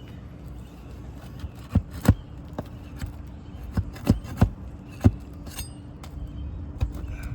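Sharp taps and clicks of a metal tool prying roofing nails out of asphalt shingles, about seven irregular strikes, the loudest about two and five seconds in.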